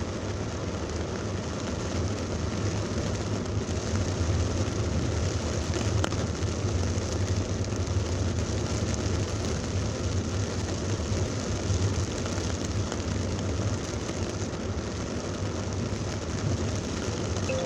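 Heavy rain pouring down steadily over the low, constant rumble of a vehicle in traffic.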